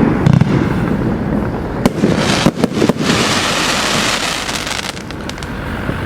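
200-shot firework cake firing a dense run of sharp bangs and crackling, with a cluster of louder bangs about two seconds in, then a hissing crackle that tails off toward the end.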